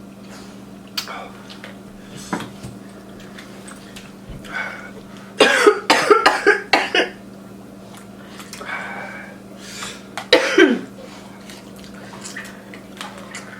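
A person coughing and clearing their throat while eating very spicy ramen noodles: a quick run of several coughs about halfway through and another cough a few seconds later, set off by the chili heat. Small eating clicks come in between.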